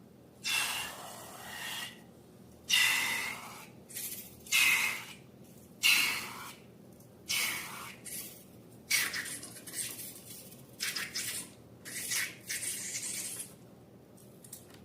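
Slime being squished and worked by hand: about a dozen short bursts of squishing noise in an uneven rhythm.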